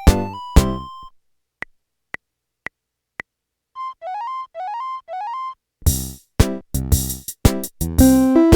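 Casio MT-88 keyboard playing a ROM pack song automatically: a tune ends on a held note about a second in, four short ticks count in the next song, then four quick rising chirps, and the next song starts near the end with bass, chords and melody.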